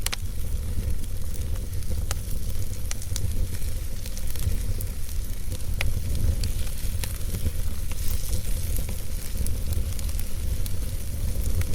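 Wood fire burning in a fireplace, with irregular crackles and sharp pops over a steady low rumble of the flames.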